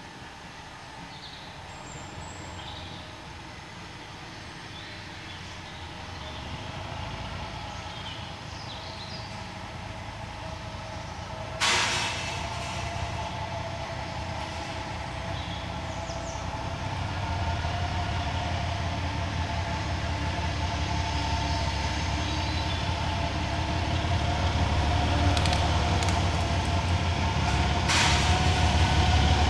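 A heritage railway train drawing near, its low rumble growing steadily louder, with a sharp bang about twelve seconds in. Birds chirp faintly in the first few seconds.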